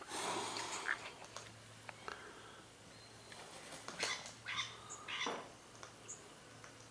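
Wild birds calling around a garden bird feeder: scattered short high chirps, with a few harsher, raspier calls clustered about four to five seconds in.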